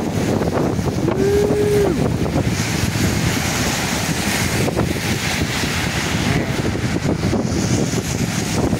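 Strong gusting wind blowing hard across the microphone: a loud low rumble under a rushing hiss that swells and eases. About a second in, a short single tone sounds for just under a second.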